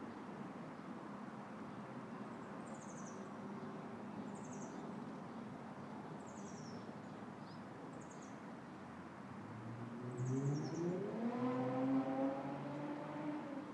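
Breeze through a tree's leaves with short high chirps repeating every second or two. About ten seconds in, a vehicle engine comes in, rising in pitch and then holding steady, louder than the rest, and dies away near the end.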